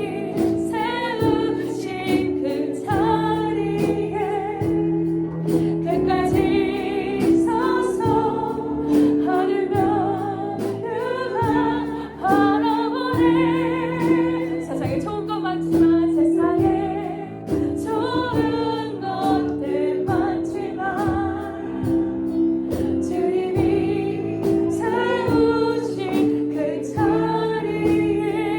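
Music: a choir singing a children's worship song over a band with a steady beat.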